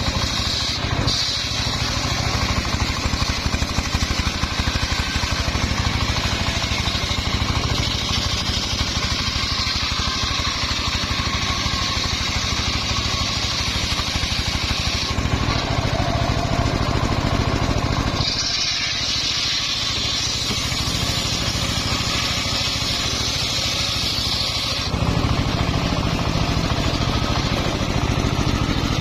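Homemade circular sawmill running steadily, its engine pulsing while the blade rips through a log of old, fairly hard mahogany. A high hiss from the cut drops out about 15 seconds in and returns from about 18 to 25 seconds.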